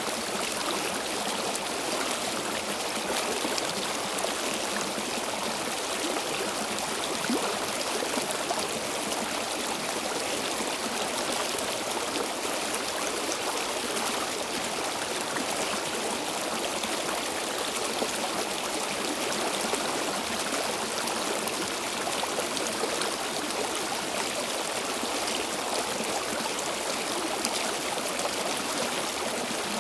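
Stream water flowing steadily, a continuous even rush with fine trickling and gurgling.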